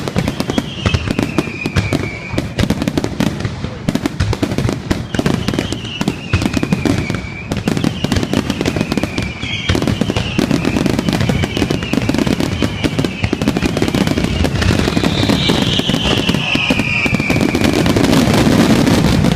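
Fireworks finale: a dense, continuous barrage of aerial shell bursts and crackling with a low rumble. Several high whistling tones fall in pitch over a second or two each, the strongest near the end.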